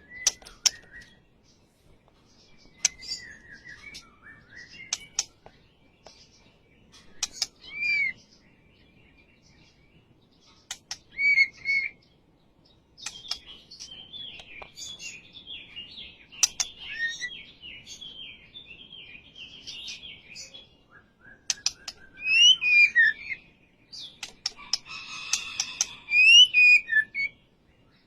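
White-rumped shama singing in its aggressive 'fighter' mood: short whistled gliding phrases and chattering broken up by sharp clicks, with a long run of continuous chatter about halfway through and the loudest phrases near the end.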